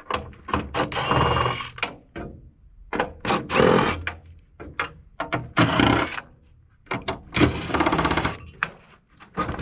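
Four short bursts of a power tool working on an air-conditioning unit, with sharp knocks and clatter of metal parts between them.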